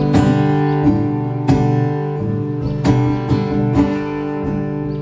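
Acoustic guitar strummed in an instrumental break of a song, with chords ringing on between sharp strokes that fall at uneven intervals.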